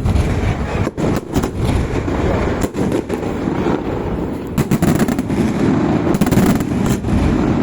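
A barrage of fireworks going off: rapid, unbroken bangs and crackling that start abruptly, with louder single reports scattered through.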